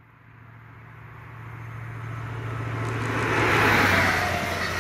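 High Speed Train passing at speed: the Class 43 power car's diesel engine note grows steadily louder as it approaches, peaks as the power car goes by about three and a half seconds in, and drops slightly in pitch. The Mk3 coaches then follow with a steady rush of wheels on rail.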